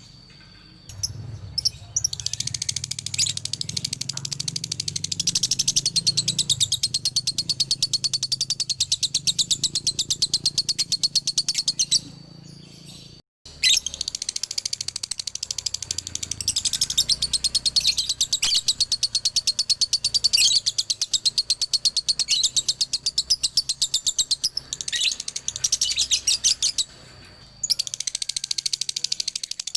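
Male lovebird singing long runs of very rapid, unbroken high chattering chirps (the 'dobelan' or 'ngekek' song). It stops briefly about halfway through and again near the end.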